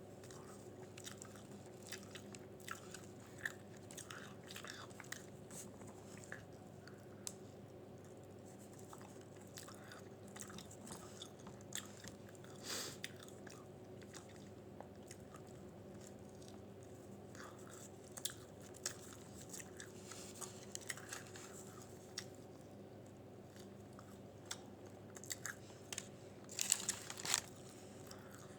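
Close-miked chewing and biting of a soft chicken, cheese and roasted pepper wrap: scattered small mouth clicks and wet chewing sounds, with a louder cluster near the end.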